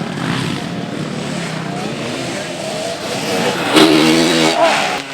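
Motocross motorcycle engines revving, with one growing louder and rising in pitch about three-quarters of the way through.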